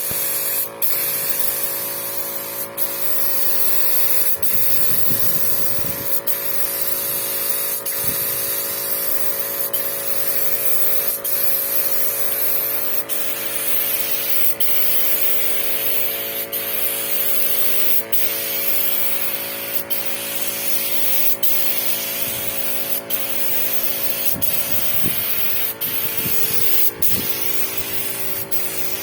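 Paint spray gun hissing steadily while spraying a finish coat on a boat, with a steady machine hum underneath and brief breaks in the spray now and then.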